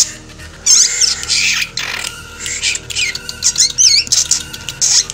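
A black drongo calling: a run of harsh, high squawks and rasping notes, with a quick wavering whistle a little under four seconds in.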